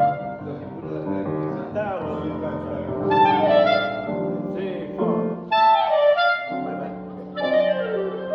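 Several clarinets playing together in ensemble, with quick falling runs of notes partway through and again near the end.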